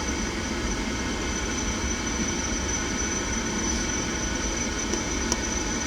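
Gas-fired pool heater running: a steady mechanical hum and whir with a constant high whine. A single small tick about five seconds in.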